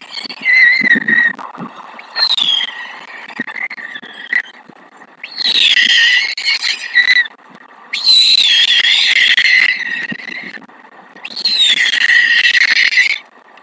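Repeated raspy animal calls, each bout lasting one to two seconds and falling in pitch, coming about every two to three seconds.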